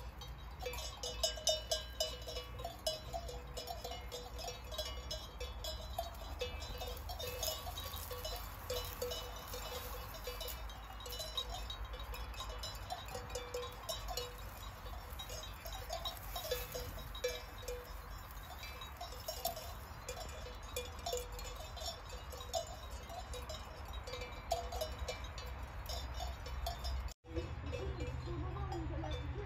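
Neck bells on a flock of grazing sheep clinking and clanking irregularly as the animals move and feed.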